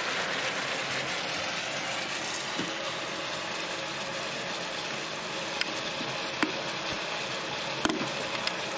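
Diced chicken thighs frying on high heat in a pan, a steady sizzle and bubbling as the water released from the meat boils off in the oil, with a few sharp clicks in the second half.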